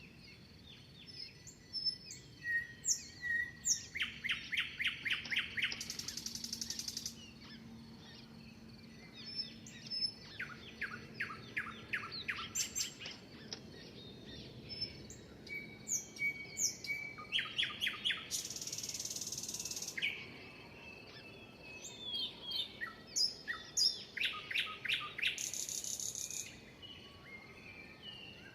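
Songbirds singing. One song repeats about every seven seconds: a quick run of sharp, falling chirps ending in a high buzzy trill, with other short chirps and whistles between.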